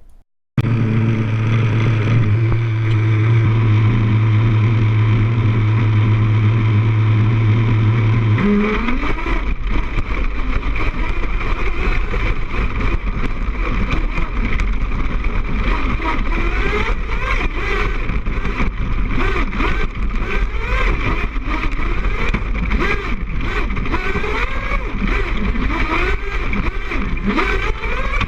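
Small gas engine of an RC truck, heard through a GoPro mounted on the truck: it runs at a steady idle, then from about eight seconds in revs up and down over and over as the truck is driven, with a low rumble of bumps and wind over the mount.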